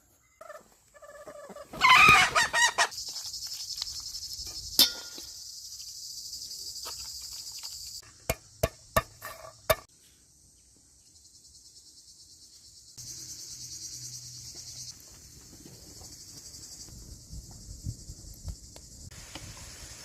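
A rooster crows loudly about two seconds in, over a steady high chirring of insects. Four sharp knocks follow in quick succession around the middle.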